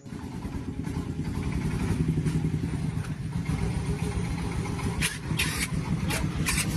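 Engine running steadily with a fast, even low pulsing, with a few short hissing bursts near the end.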